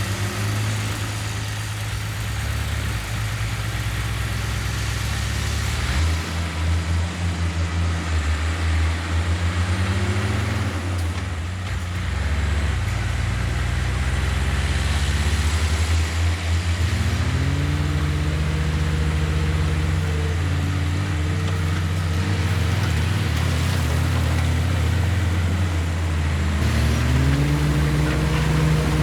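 Diesel engine of heavy earthmoving machinery running, a steady low drone whose pitch rises and falls several times as the engine revs up and settles back.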